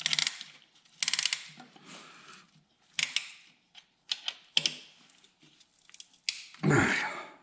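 Metal engine parts and hand tools clicking and clattering in short bursts of rapid clicks while a piston with its rings is fitted into a John Deere B cylinder, with a louder scraping clunk near the end.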